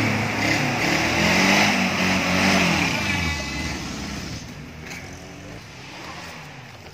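Off-road 4x4's engine revving under load as it climbs a steep dirt slope, its pitch rising and falling. The engine sound fades away over the second half.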